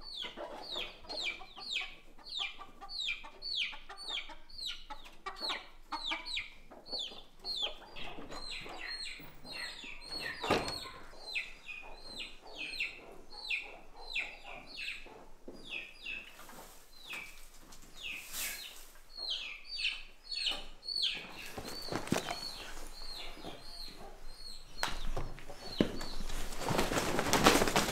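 A bird calling over and over, a long run of high calls that each slide downward, about two a second, becoming shorter and flatter after about twenty seconds. A louder rustling comes near the end.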